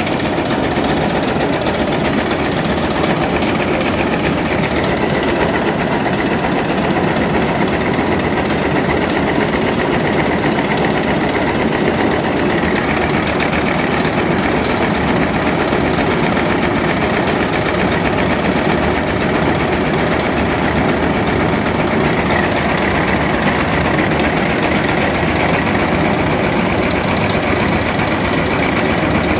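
Tobacco-leaf shredding machine running steadily, giving a loud, even mechanical din without pauses.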